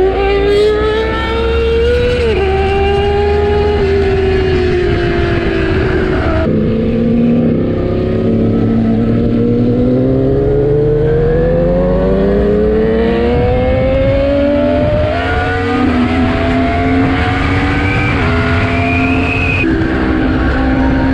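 Yamaha MT-10 motorcycle's inline-four engine accelerating under way. Its pitch climbs with the revs and drops sharply at gear changes several times, over steady wind noise.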